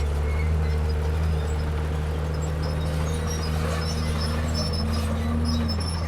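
Komatsu D31P crawler bulldozer's diesel engine running steadily under load, with a second engine tone rising and wavering from about halfway through.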